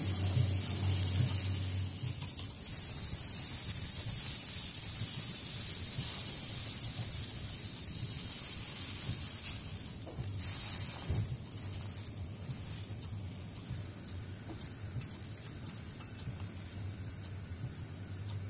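Butter sizzling under pav buns toasting on a hot tawa, a steady frying hiss. It swells about three seconds in and again briefly about ten seconds in, then slowly dies down.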